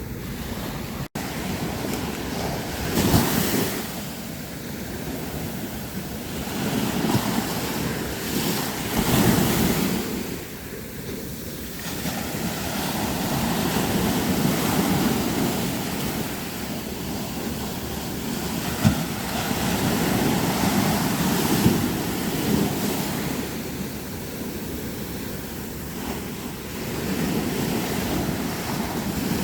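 Sea waves breaking on a beach, the surf swelling and falling away again every few seconds.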